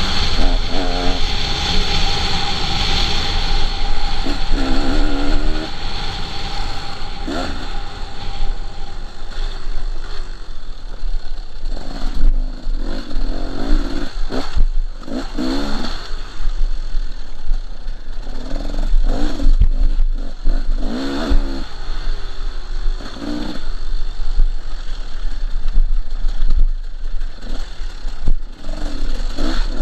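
KTM 300 two-stroke dirt bike engine revving up and falling back over and over as it is ridden along a track, with scattered knocks and rattles.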